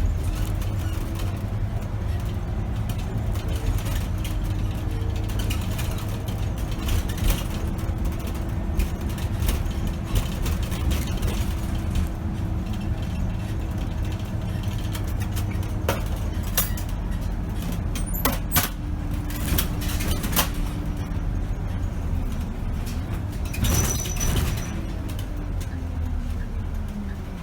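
Scania K270 city bus running on the road, heard from the driver's cab: a steady low engine rumble with a steady whine over it that sags near the end, a few rattles and knocks, and a short hiss of air about 24 seconds in.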